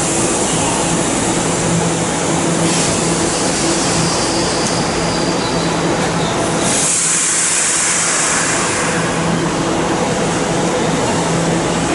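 Keihan 2600-series electric commuter train pulling out of a station, its running noise loud and continuous with a steady hum. A short burst of high hiss comes about seven seconds in.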